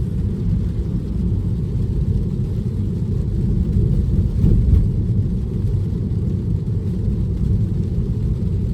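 Steady low rumble of tyre and road noise heard inside the cabin of a moving Tesla electric car.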